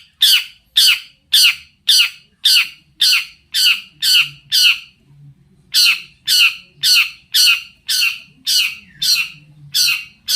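Long-tailed shrike (cendet) giving a run of loud, harsh scolding calls, about two a second. The calls pause for about a second near the middle, then start again.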